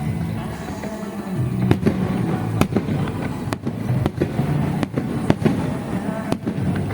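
Aerial fireworks shells bursting in a display, a string of sharp bangs about one or two a second, over a continuous crackle and rumble.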